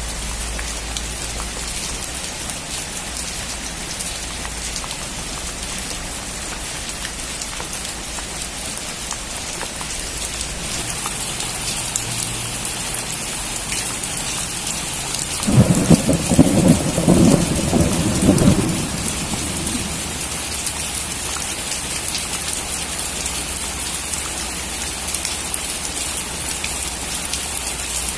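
Steady rainfall pattering, growing heavier about ten seconds in, with a crack of thunder rumbling for about three seconds a little past the middle.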